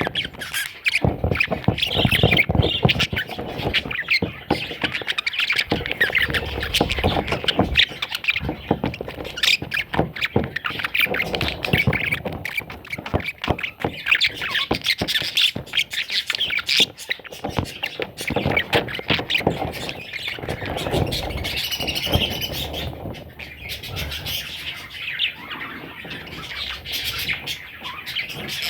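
Baby parrots squawking and chirping almost without pause, amid many small clicks and rustles.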